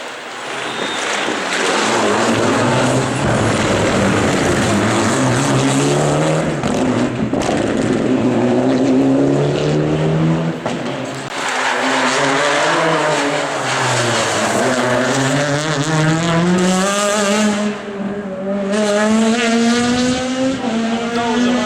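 Rally car engine at high revs, the pitch climbing and dropping again and again as the car accelerates, lifts and shifts, ending in a long steady climb in revs.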